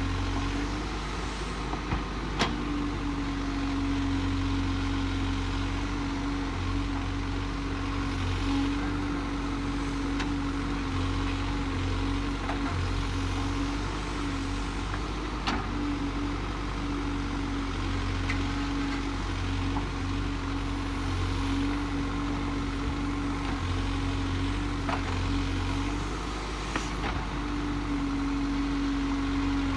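Diesel engine of a Case backhoe loader running steadily under work, with a few sharp knocks scattered through.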